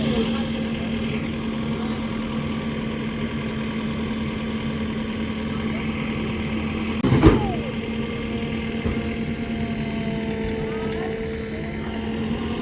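Diesel engine of a heavy vehicle running steadily at idle, with one sharp metallic knock about seven seconds in.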